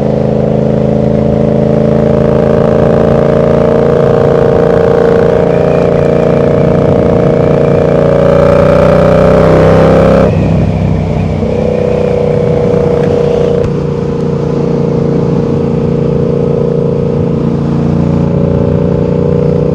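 Sport motorcycle's engine under way: the pitch climbs steadily for several seconds as it accelerates, drops suddenly about ten seconds in as the throttle is closed or a gear is changed, then holds steady while cruising, with wind noise.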